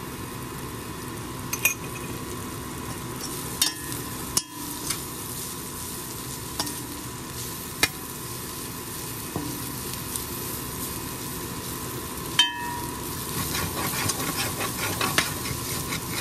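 Small dried anchovies sizzling steadily in hot oil in a stainless steel pan while being stir-fried, with the spatula clicking and scraping against the pan every few seconds. The stirring gets busier near the end.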